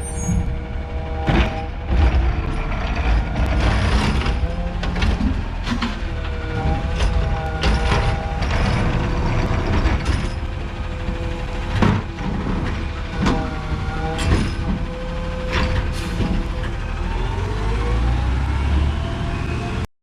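Garbage truck engine running, its pitch rising and falling several times, with scattered clanks and knocks throughout.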